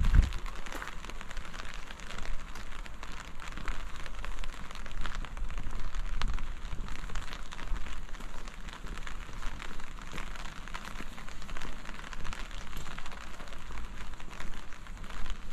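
Steady rain pattering on surfaces, many small drop ticks close together over a low rumble, with a brief low thump right at the start.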